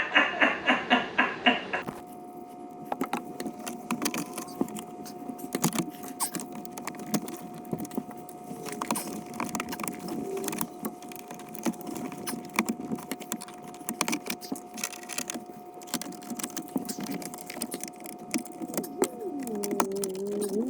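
Hand work on a car's centre console: scattered clicks, knocks and rattles of tools and plastic trim, opening with about two seconds of quick, evenly spaced clicks. A faint steady tone runs under most of it.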